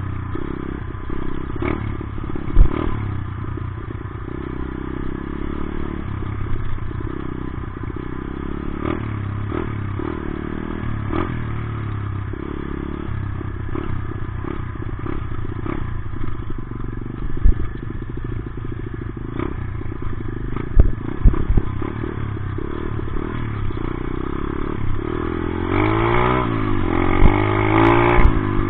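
Dirt bike engine running under way off-road, with scattered knocks and rattles. Near the end the engine revs up and down several times.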